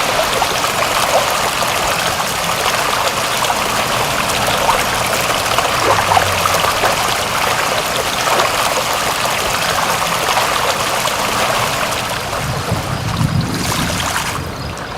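Steady rushing and splashing of water, a dense even hiss dotted with small drips and trickles; the highest part of the hiss drops away just before the end.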